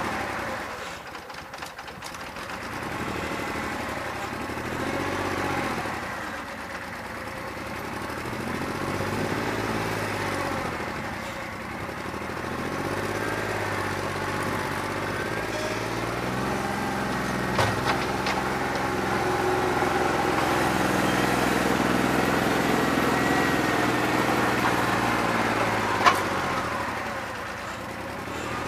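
New Holland 1320's three-cylinder diesel engine running under loader work, its speed rising and falling again and again. It runs rough because one cylinder's injector is bad and needs replacing. Two sharp clanks come through, one just past the middle and one near the end.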